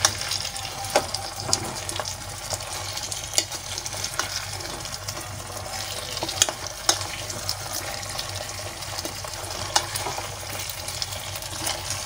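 Raw mango pieces and green chillies sizzling in oil and spice masala as they are stirred with a spatula, with scattered clicks and scrapes of the spatula against the pan.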